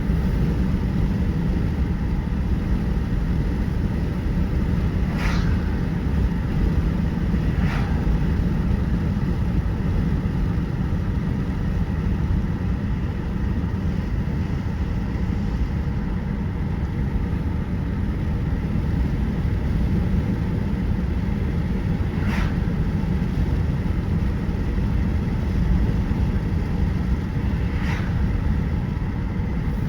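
Car driving, heard from inside the cabin: a steady low rumble of road and engine noise, with a few faint clicks.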